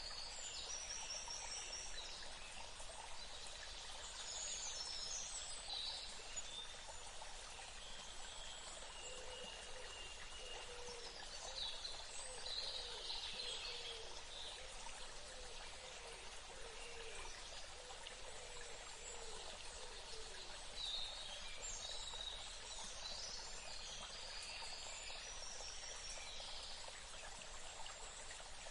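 Steady rush of flowing water, like a stream, with birds chirping in short snatches over it. A softer, lower call repeats several times in the middle stretch.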